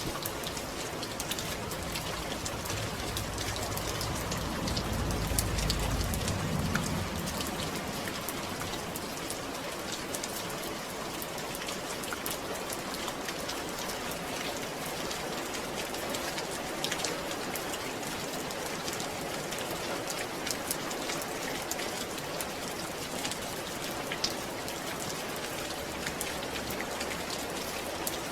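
Steady rain falling, with individual drops ticking on a surface. A low rumble swells and fades about four to seven seconds in.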